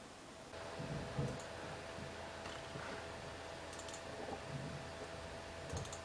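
A few faint, short computer mouse clicks, with a steady electrical hum that comes in about half a second in.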